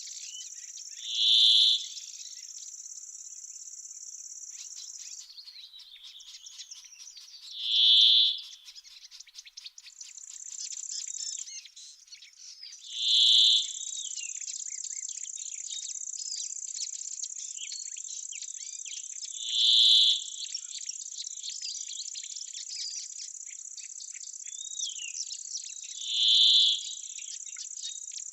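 A steady high insect chorus of crickets or grasshoppers, with small birds chirping. A single loud, short, clear note repeats about every six seconds, five times in all. The insect drone drops out for several seconds near the middle, leaving a rapid faint ticking.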